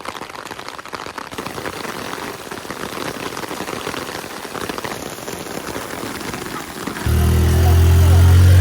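Steady rain falling and pattering on hard surfaces. About seven seconds in, a loud, low, steady engine drone cuts in abruptly and drowns the rain out.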